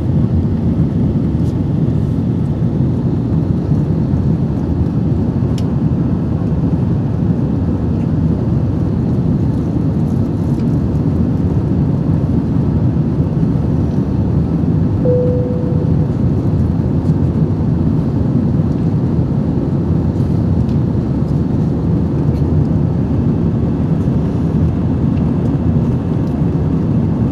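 Steady roar of an airliner cabin in flight: engine and airflow noise, even and unbroken. A single short tone sounds once about halfway through.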